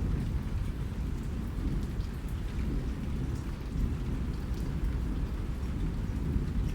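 Steady rain, a continuous low rumbling wash with scattered sharp drop ticks on top.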